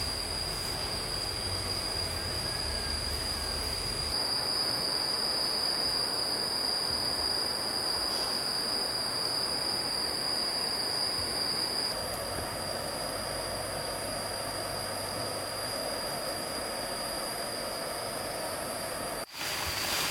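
Steady rushing noise of stream water with a thin, steady high whine over it. The sound shifts abruptly about 4 and 12 seconds in and drops out for a moment near the end.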